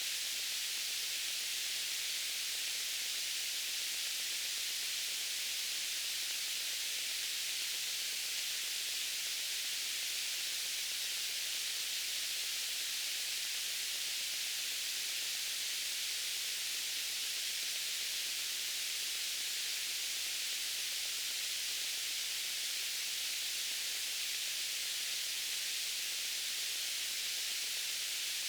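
Steady white noise: an even, unchanging hiss, strongest in the upper range with little low end.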